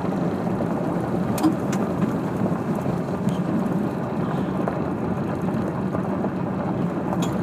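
Steady rumble of tyres and engine inside a vehicle cabin on a very bumpy road, with a few sharp knocks and rattles as it jolts.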